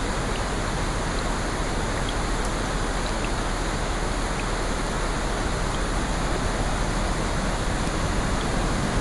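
Steady, even rushing of water, with a few faint tiny ticks scattered through it.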